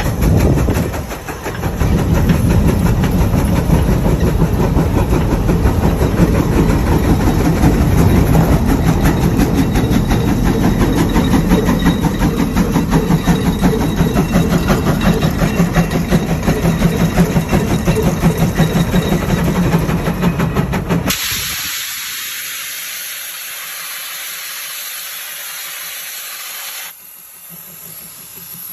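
Large steam traction engine running with a fast, steady exhaust beat, which stops suddenly after about twenty seconds and gives way to a steady hiss of escaping steam; the hiss drops off near the end.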